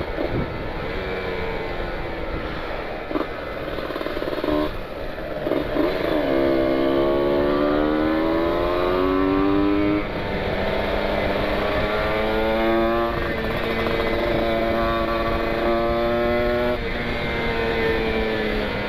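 Kawasaki Ninja 150 RR's single-cylinder two-stroke engine pulling under way, its pitch climbing for a few seconds and then dropping suddenly at a gear change about halfway through, running steadier after with further shifts. Wind rumbles on the microphone throughout.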